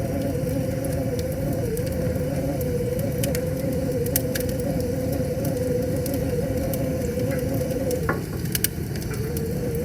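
Wood fire crackling, with scattered sharp pops over a steady low rushing noise. A wavering whistling tone runs beneath it and breaks off about eight seconds in, returning near the end.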